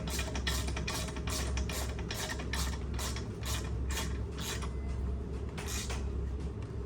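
Socket ratchet tightening the last bolt on the pump: a steady run of ratcheting strokes, about three a second, stopping about six seconds in, over a constant low hum.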